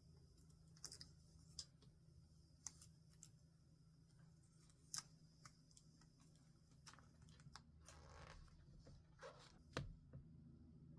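Faint paper and stationery handling: a scatter of small clicks and taps, with a soft paper rustle about eight seconds in and a slightly sharper tick near the end, over a low steady room hum.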